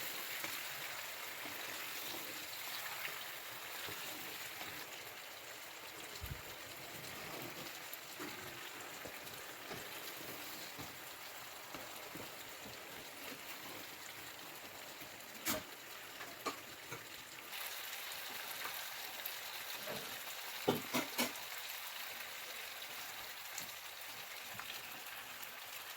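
Marinated chicken pieces frying in hot oil in a heavy-bottomed kadai: a steady sizzle, with a few short sharp clicks a little past the middle.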